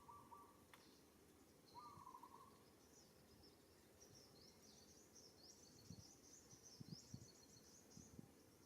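Faint outdoor ambience with birds calling. A buzzy trill comes twice in the first two seconds, then high thin chirping carries on through most of the rest, with a few soft low thumps in between.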